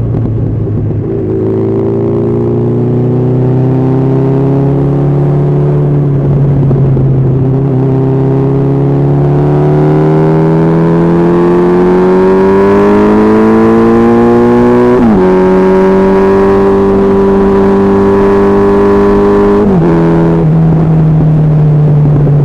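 Honda CB1300SF's inline-four engine under way, its pitch climbing slowly as it accelerates, then falling sharply twice, about fifteen and twenty seconds in, as it shifts up, running steady in between.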